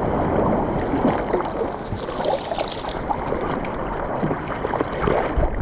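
Seawater splashing and sloshing right at a GoPro's microphone, a dense jumble of small irregular splashes.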